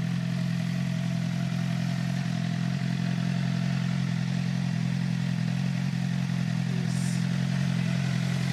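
Suzuki GSX-R 600 K9 inline four-cylinder engine idling steadily through an Arrow exhaust.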